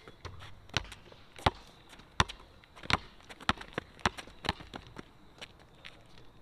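Basketball being dribbled, a sharp bounce off the court roughly every three-quarters of a second, with lighter taps and footsteps in between.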